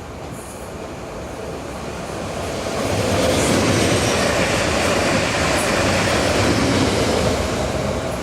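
Train passing on the track, its wheel and running rumble growing louder over the first three seconds, holding loud, then easing off near the end.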